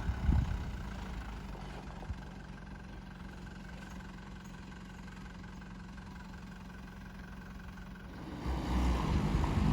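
Car engine idling steadily, a low even hum. A louder low rumble comes in about 8 seconds in.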